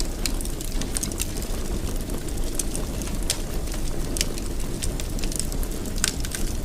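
Wood fire burning in a fireplace: a steady low rumble of flames, with sharp irregular crackles and pops, one to a few each second.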